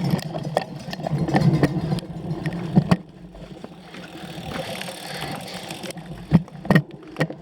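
Cyclocross bike rattling over rough ground, with sharp clicks and knocks from the bike. It is rougher and louder for the first three seconds, then quieter, with a few loud knocks near the end.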